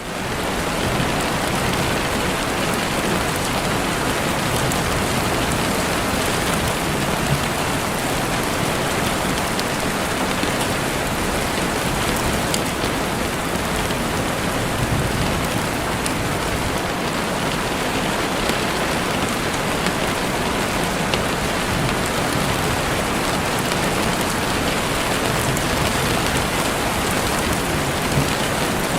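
Heavy rain falling steadily on a window pane, a dense even hiss with scattered drop ticks, fading in during the first second.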